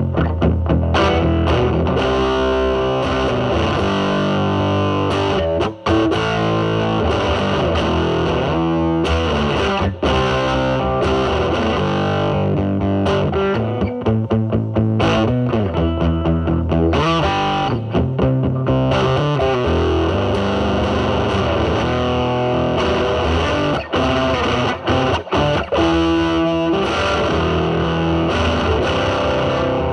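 Electric guitar, a Telecaster through a silicon Mosrite Fuzzrite clone fuzz pedal into a Marshall Valvestate's drive channel, played continuously in improvised licks and chords with a cleaned-up fuzz tone. The playing breaks off briefly about six seconds in and a couple of times near the end.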